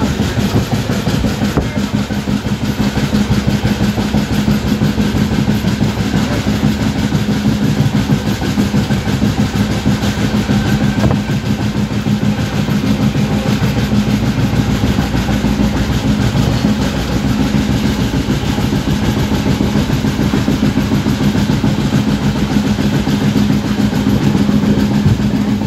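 Passenger train running at speed, heard from an open window: a steady rumble of wheels on rails, with a steady low hum under it.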